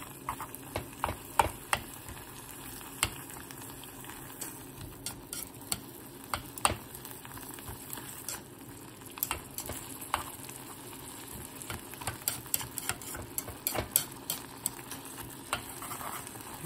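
Sliced pork and onions frying in a granite-coated pan, a steady sizzle under the stirring, with frequent irregular clicks of the utensil tapping and scraping the pan as the meat is turned.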